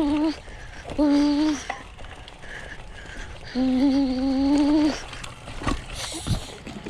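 A person humming three held notes, the first cutting off just after the start, a short one about a second in, and a longer one from about three and a half to five seconds, followed by a few knocks near the end.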